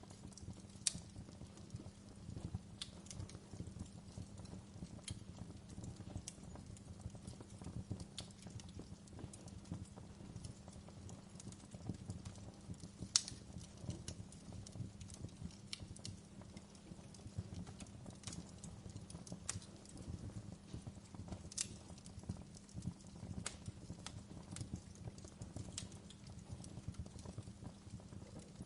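Wood fire crackling: irregular sharp pops and snaps of burning logs over a steady low rumble of flame, the loudest pops about a second in and about halfway through.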